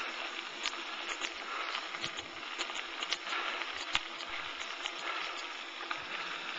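Bicycle rolling along a trail: a steady rustling noise from the tyres and riding, with scattered small clicks and ticks throughout.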